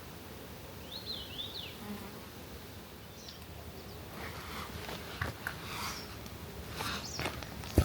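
A flying insect buzzing, with a quick run of high, rapidly rising and falling bird chirps about a second in. In the second half come rustling and short sharp clicks, the loudest just at the end.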